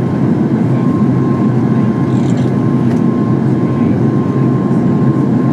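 Steady cabin noise of a Boeing 737 MAX 8 heard from a window seat: the CFM LEAP-1B turbofans and rushing airflow make an even, loud rumble, with a thin steady high tone over it.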